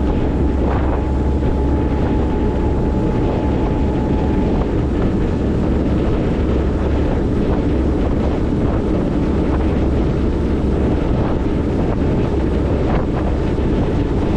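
High-speed passenger ferry running at speed: a steady engine drone and rushing water, with heavy wind buffeting the microphone. A faint steady whine fades out about four seconds in.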